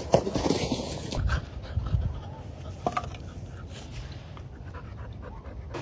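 A dog panting, with a few light clicks.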